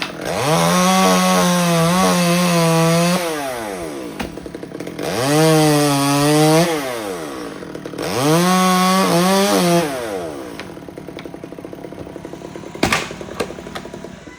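Chainsaw engine revved up to high speed three times, each time holding high for a second or more before dropping back to a lower idle. A single sharp click comes near the end.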